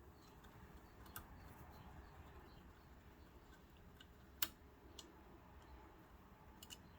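Near silence broken by four faint, sharp metallic clicks, the loudest a little past halfway: a screwdriver and small screws being handled while the cam assembly of a Kenmore sewing machine is taken apart.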